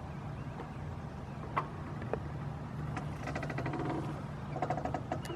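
Power wheelchair rolling: a steady low motor hum with a few sharp clicks, and a quick rattling squeak from the chair about three seconds in and again near the end.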